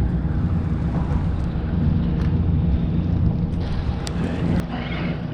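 Steady low rumble of wind buffeting the microphone aboard a boat, with a few short sharp clicks about four seconds in.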